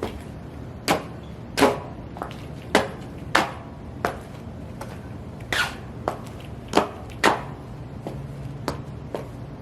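High-heeled shoes stomping: about a dozen sharp heel strikes at an uneven pace, over a steady low hum.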